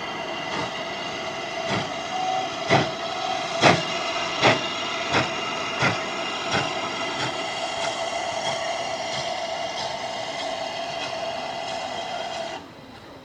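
Train running past on heritage railway track, its wheels clicking over the rail joints at an even rate, loudest a few seconds in, over a steady hiss and hum. The sound cuts off suddenly near the end.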